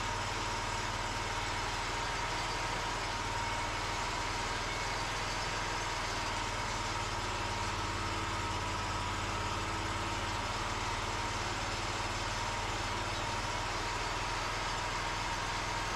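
Engine of a Cooks 3238 full hydraulic sawmill running steadily, with an even tone held over its low drone.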